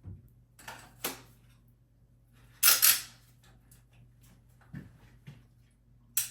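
Sharp clicks and knocks of hand tools being handled, with a loud double clack about two and a half seconds in and a few lighter clicks around it.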